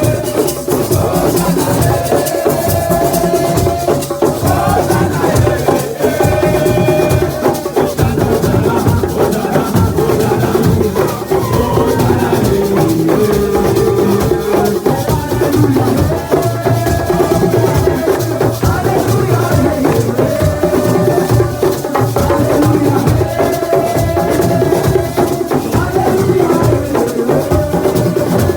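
Group of voices singing a chant over dense hand percussion: drums with rattling shakers and sharp wooden clacks keeping a fast rhythm.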